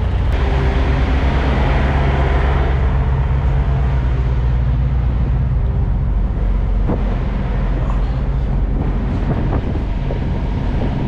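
Semi-truck diesel engine running steadily with a low, even drone, and a few light clicks in the second half.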